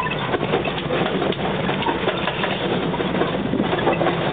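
Homemade truck's engine running steadily while the truck is driven over rough ground, with frequent small rattles and knocks from the body throughout.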